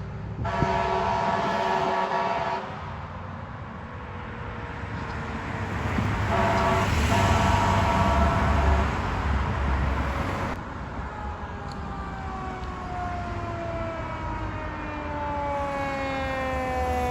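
Fire engine air horn blasting twice, a long chord early on and a shorter one about six seconds in, while the truck's engine and road noise swell as it passes. From about eleven seconds in, a siren's pitch falls slowly and steadily, like a mechanical siren winding down.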